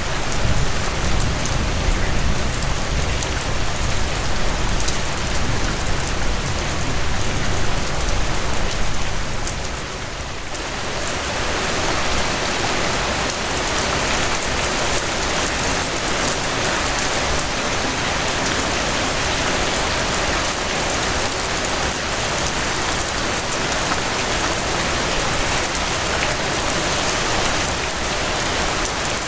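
Steady rainfall on surfaces, a dense even hiss. For the first ten seconds or so a deep low rumble runs underneath it. After a brief dip in level, the rumble fades and the rain sounds brighter.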